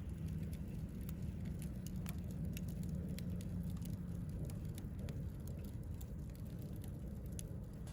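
Wood campfire burning, crackling with frequent small irregular pops over a steady low rumble.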